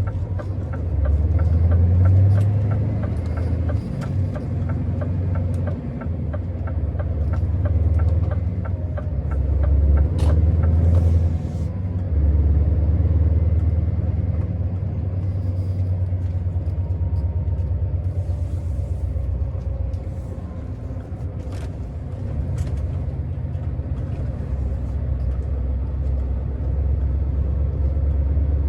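Scania R650's 16-litre V8 diesel engine rumbling steadily as the truck is driven, its loudness rising and falling with the throttle. For the first ten seconds a regular ticking runs about twice a second, and a short hiss comes about eleven seconds in.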